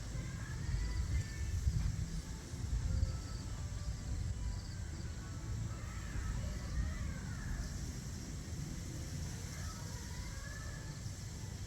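Outdoor ambience of scattered faint bird chirps and short calls over a steady low rumble.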